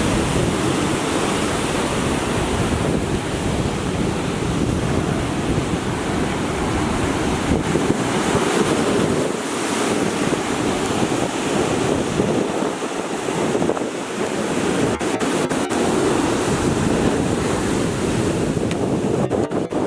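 Heavy storm surf from an approaching typhoon breaking and washing up over a sandy beach, a loud, continuous roar of water. Strong wind buffets the microphone throughout.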